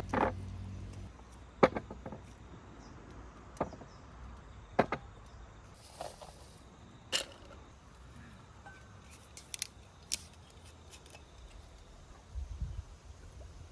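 Irregular sharp clicks and knocks, about eight of them, spread over several seconds, with a faint low rumble near the start and again near the end.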